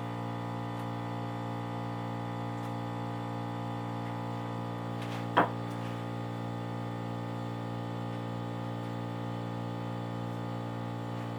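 A steady electrical hum, with one sharp knock about five seconds in.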